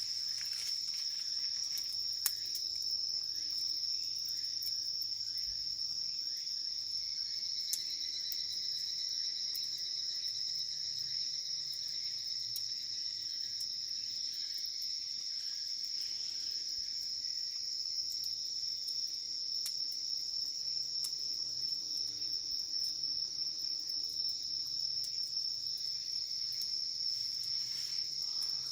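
Crickets and other insects singing in a steady high, continuous trill. A second, lower insect song joins about eight seconds in and fades out around sixteen seconds. Occasional faint pops from a wood campfire sound over it.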